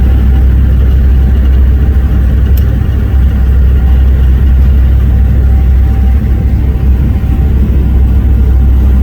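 Loud, steady low rumble aboard a moving passenger ferry: the boat's engines running under way, mixed with wind buffeting the microphone.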